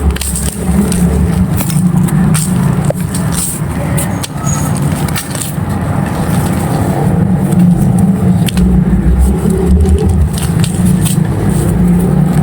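Dry, dusty clay crumbling and crunching, with scattered crisp crackles over a steady deep rumble.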